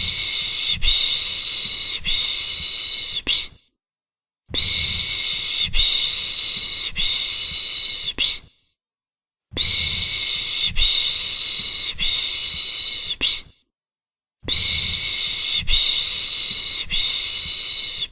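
A person shushing a baby with the Turkish 'piş piş' sound: long hissing 'shhh' strokes in bursts of about four seconds, each followed by a second's pause, repeating evenly.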